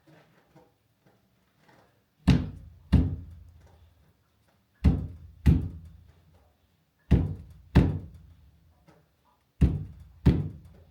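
Heavy thumps on the rear window glass and its rubber seal as it is worked into the body opening. They come in four pairs, the two blows of each pair under a second apart, about every two and a half seconds.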